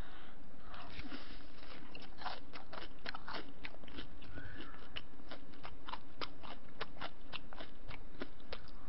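Close-miked biting and chewing of a breaded, deep-fried pork cutlet (donkatsu): a steady run of crisp crunches.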